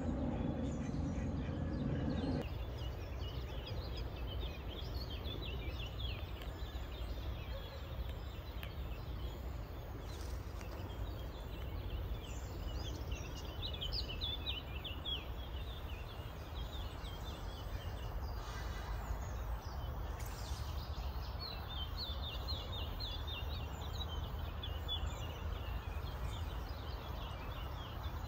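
Small birds chirping and twittering in trees, in quick runs of high chirps that come thickest about halfway through and again near the end, over a steady low rumble.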